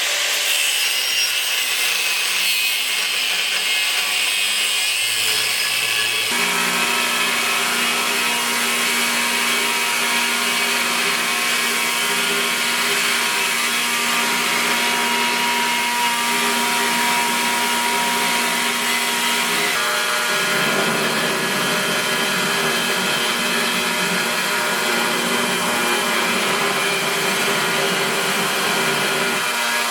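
Electric grinder running steadily while grinding the steel blade of a large forged Bowie knife, a rubbing, grinding noise with a constant whine. The sound changes pitch and texture about six seconds in and again about twenty seconds in.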